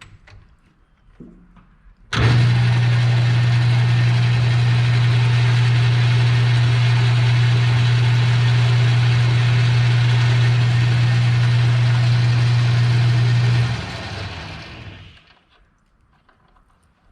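Metal lathe switched on about two seconds in, running steadily with a loud low hum during a turning cut, then switched off and spinning down over a second or two.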